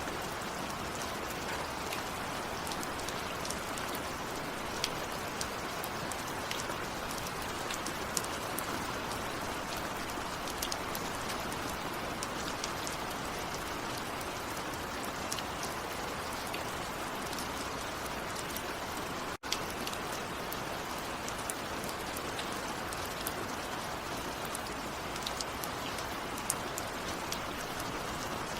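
Steady heavy rain falling, with frequent sharp ticks of single drops striking a surface. About two-thirds of the way through, the sound drops out for a split second.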